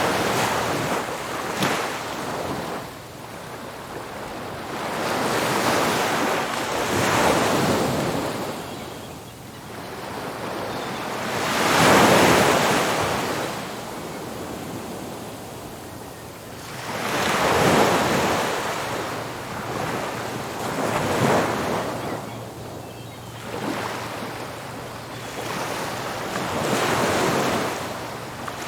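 Ocean surf: waves breaking and washing up the beach in repeated surges every few seconds, the loudest about twelve and eighteen seconds in, with wind on the microphone.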